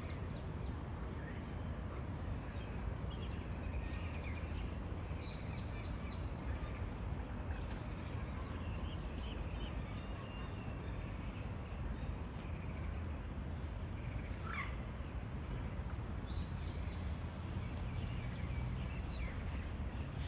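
Birds calling in short, scattered calls over a steady low outdoor rumble, with one louder falling call about two-thirds of the way through.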